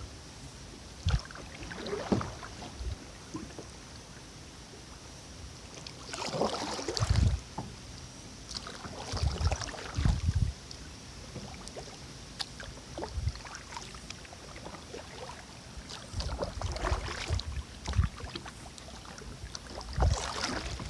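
Kayak paddle strokes dipping and splashing in river water, coming in irregular bursts a few seconds apart, with occasional low thumps.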